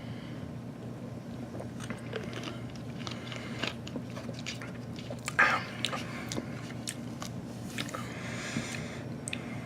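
Close-up mouth sounds of a person sipping and swallowing clear cola: small wet clicks and lip smacks, with one louder sound about five and a half seconds in. A steady low hum runs underneath.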